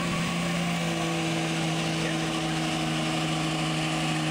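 Diesel pickup engine held at steady high revs under load, a constant pitched drone over a hiss of exhaust and turbo noise, its pitch stepping up slightly about a second in.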